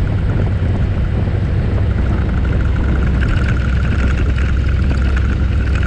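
Harley-Davidson Ultra Limited motorcycle running at road speed, a steady low engine rumble under heavy wind noise on the camera mic, with a steady higher tone joining about three seconds in.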